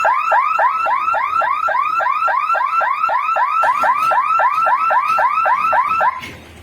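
Electronic level-crossing warning alarm sounding a fast, even series of short rising chirps, about five a second, warning that the gate is closing for an approaching train. It stops about six seconds in.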